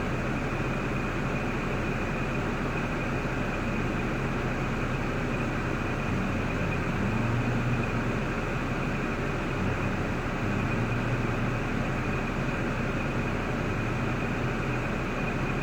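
A 2005 Cadillac STS's 3.6L LY7 V6 idling steadily, its low hum swelling slightly a couple of times, with a steady high-pitched tone above it.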